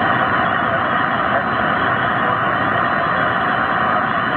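Steady radio static hiss from an air traffic control frequency between transmissions, a loud, even rushing noise with a faint steady tone in it.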